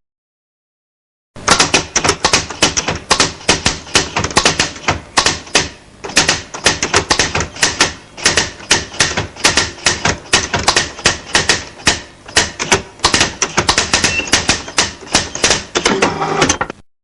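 Cartoon sound effect: a rapid, irregular run of sharp clacking taps, several a second. It starts a little over a second in and stops just before the end.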